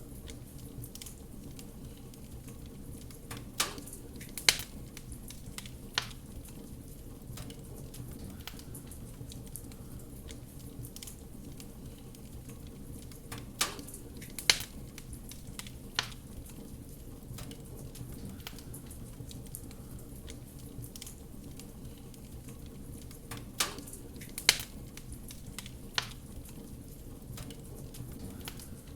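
Wood fire crackling in a fireplace: a steady low rumble of burning with scattered small crackles and sharp pops. A cluster of three louder pops comes about every ten seconds.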